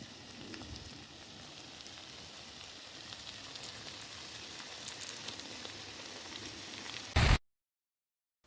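Faint steady hiss with scattered small crackles of food cooking over an open wood fire. Near the end a short, loud burst of noise cuts off suddenly.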